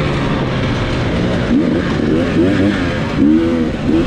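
Dirt bike engine running hard and revving up and down repeatedly.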